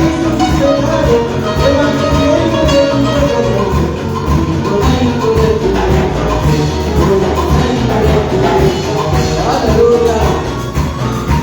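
Upbeat Latin-style band music with a steady beat and a melodic lead line.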